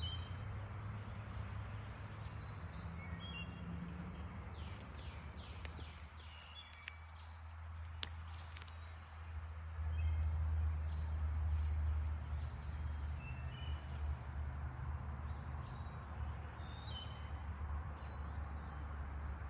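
Outdoor nature ambience: a steady high insect drone with short bird chirps now and then, over a low rumble that grows louder about ten seconds in.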